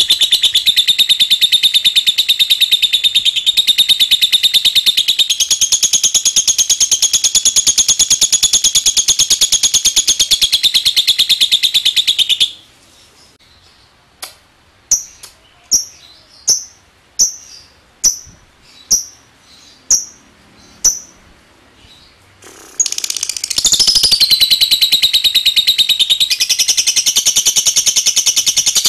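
Lovebird giving its long 'ngekek' chatter: a rapid, unbroken, high chattering trill. About halfway through it breaks off into about a dozen short separate chirps, a little over half a second apart. Some seconds later the long chatter starts up again.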